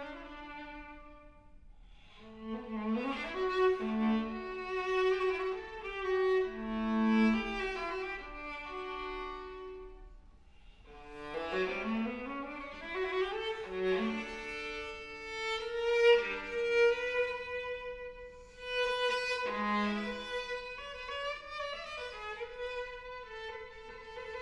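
Viola playing held bowed notes in its low-middle range, with quick rising runs about two seconds and eleven seconds in.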